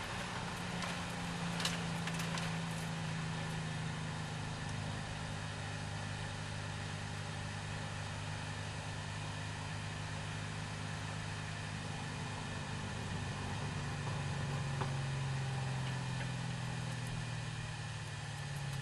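C6 Corvette V8 engine running at steady low revs, easing off slightly near the end. A few faint clicks come about two seconds in.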